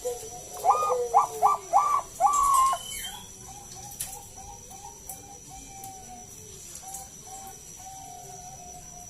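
Zebra dove (perkutut bangkok) singing: four loud, short, rising coos and a longer held note, then a run of soft, quick coos.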